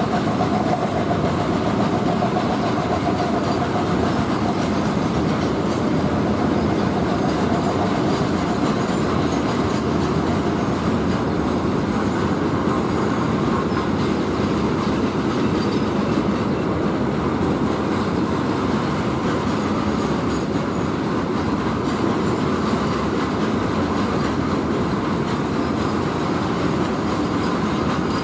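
A long freight train of stone wagons rolling past steadily on the rails.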